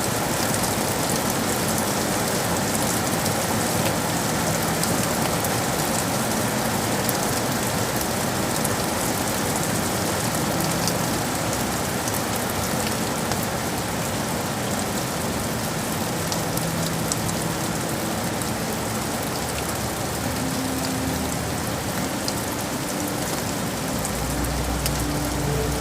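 Steady, heavy rain falling on hard city surfaces, with a dense patter of drops. A low rumble joins about a second before the end.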